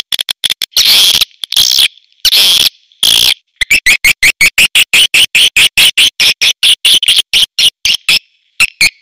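Swiftlet calls from a lure recording for swiftlet houses. First come a few longer, buzzy chirps. From about a third of the way in, they give way to a rapid, even run of short chirps, about five a second.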